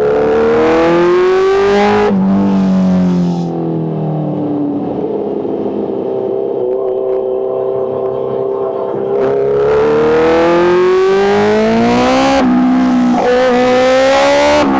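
Kawasaki H2's supercharged inline-four engine under throttle. Its revs climb and drop sharply about two seconds in, fall away and hold steady, then climb again with several quick sharp drops near the end.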